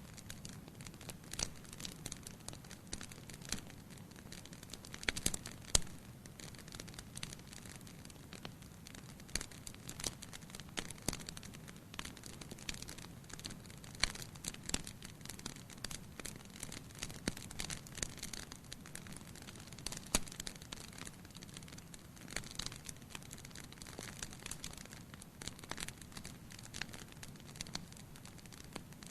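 Wood fire burning in a fireplace, crackling with irregular sharp pops and snaps from the burning logs over a soft, steady low rumble of the flames.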